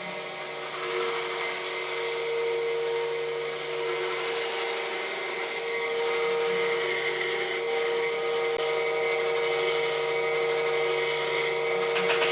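Electric power tool running steadily against wood: a constant motor whine with a grinding, abrading noise over it, getting a little louder a few seconds in as it bears into the wood.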